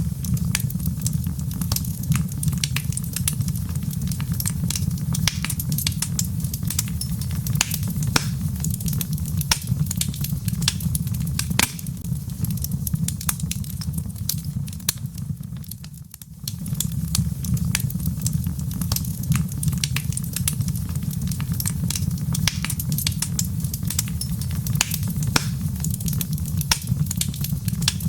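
Log fire crackling, with frequent sharp pops over a steady low rumble. The sound dips briefly about sixteen seconds in.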